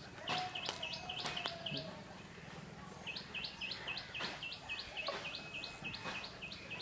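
A bird calling in the background: a quick series of short, high chirping notes, about four a second, in two runs with a pause between.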